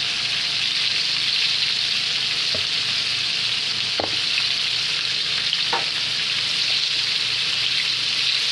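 Breaded chicken strips frying in a skillet of hot oil: a steady sizzle, with a few faint clicks.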